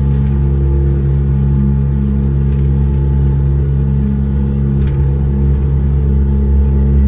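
Monorail car running steadily on its track, a loud even hum of several steady low tones, with a few faint clicks.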